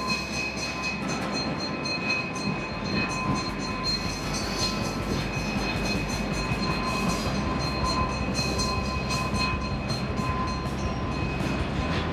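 Nevada Northern Railway passenger train rolling along the track: a steady rumbling running noise with a few faint steady high tones over it.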